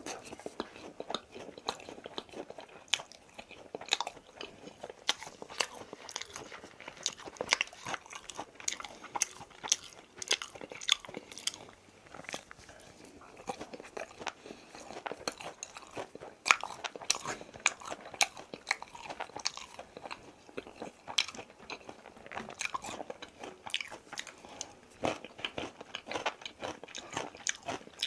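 Close-miked chewing of crispy fried chicken: irregular crunchy bites and wet chewing with many sharp crunches, the loudest about halfway through.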